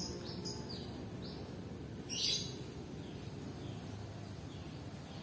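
Birds calling: a quick run of short, high, falling chirps, then a louder, short, harsh call about two seconds in, and fainter falling notes after it. There is a steady low background hum underneath.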